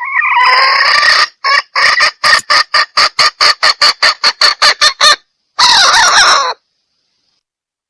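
Female junglefowl call used as a hunter's lure for males: a harsh drawn-out squawk, then a run of about fifteen short clucks at roughly four a second, and a final harsh squawk.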